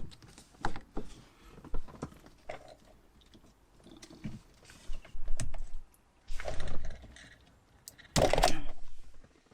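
Scattered clicks and knocks of hands and tools working at plastic and metal parts, with two longer scraping rattles in the second half, the louder one about a second before the end.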